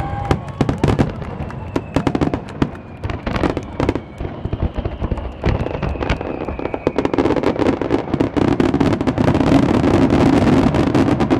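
Fireworks display: a rapid, overlapping run of bangs and crackles from aerial shells. It grows denser and louder in the second half.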